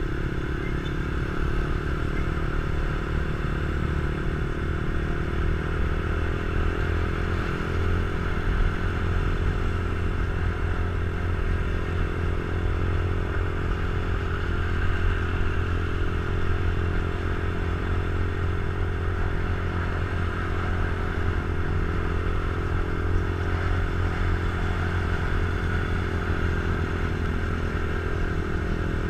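Motorcycle running at a steady, even pace while being ridden, with a constant low engine hum and no revving.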